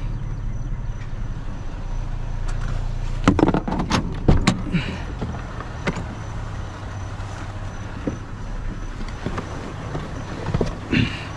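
Truck engine idling with a steady low hum, broken about three to four and a half seconds in by a quick cluster of sharp knocks and clatter, with a few single knocks later.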